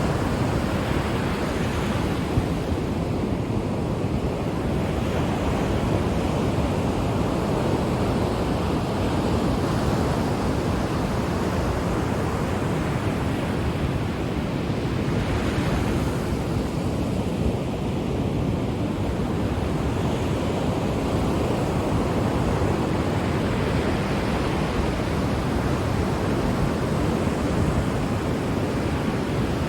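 Ocean waves washing onto the shore: a continuous rush of surf that swells and eases as waves break, one wave cresting brighter about halfway through.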